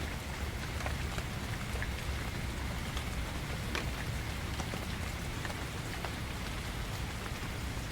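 Steady gentle rain falling on leaves, with scattered faint drips.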